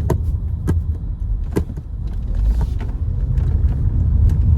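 Steady low rumble of a car running, with a few sharp clicks.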